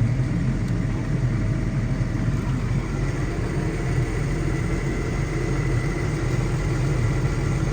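New Holland T7.190 tractor's six-cylinder diesel engine running steadily at idle, with a faint high whine in the middle.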